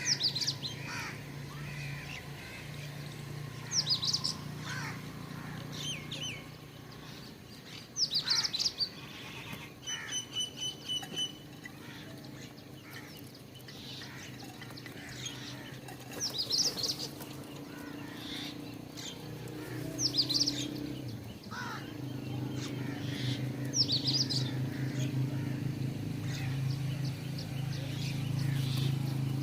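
Small birds chirping, with short high calls repeating every few seconds and a short run of evenly spaced piping notes about ten seconds in, over a steady low hum.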